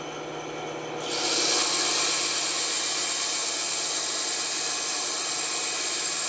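Band saw running with a steady motor hum; about a second in the blade bites into the wood and a loud, steady hiss of cutting begins and continues as a circle is sawn out.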